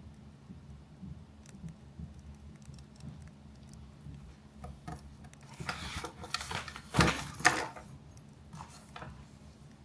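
Small objects handled on a desk, rustling and clinking for a few seconds, with two sharp clacks about seven seconds in.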